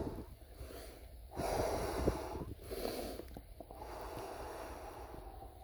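A man breathing heavily, out of breath after a run: three or four loud breaths in the first few seconds, then softer breathing, over a steady low rumble.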